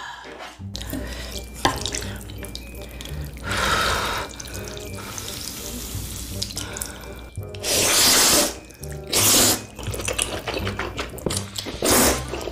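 A person slurping spicy ramen noodles in about four loud, wet slurps, the longest and loudest past the middle, over background music.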